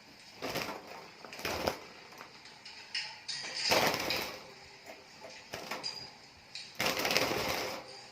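Small birds with a few faint, brief high chirps, between four short bursts of rustling noise; the two longest bursts, each about a second, come near the middle and near the end.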